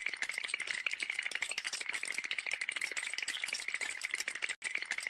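A fast, dense, continuous rattle of small sharp clicks, with a brief break about four and a half seconds in.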